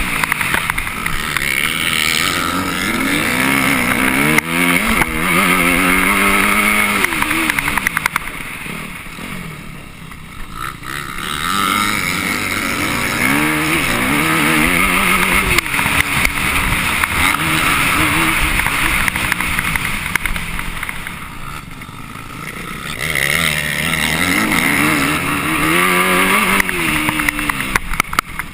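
Off-road motorcycle engine heard on board, revving up and falling back again and again as the rider accelerates and shifts, easing off twice for a couple of seconds, with small knocks from the bumpy track.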